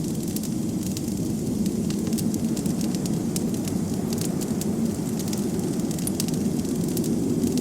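Wood fire crackling in a fireplace, with frequent irregular small pops, over a steady low rush of blizzard wind.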